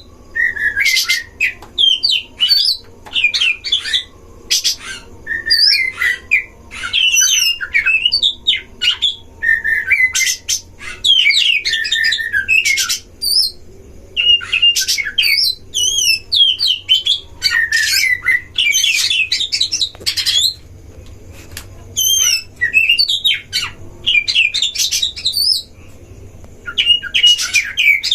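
Oriental magpie-robins (kacer) singing in quick, varied whistled phrases that rise and fall, mixed with harsh rasping notes, in bursts with short pauses throughout.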